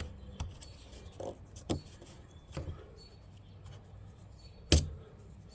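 Small plastic clicks and knocks from handling a quart bottle of motor oil and working at its cap and seal, with one louder knock near the end.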